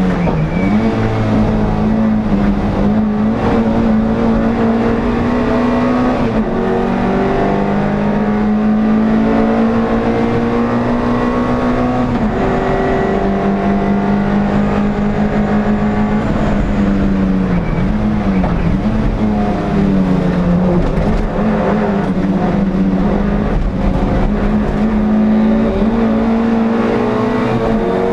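Air-cooled NSU TT race car engine heard from the cabin, held at high revs for long pulls. The pitch climbs slowly, then drops briefly about six, twelve and eighteen seconds in as the driver shifts or lifts for corners.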